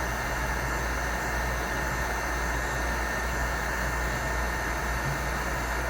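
Heat gun running steadily, a constant blowing hiss with a thin motor whine, holding the plastic-covered hot end hot so the melted polycarbonate can be picked off.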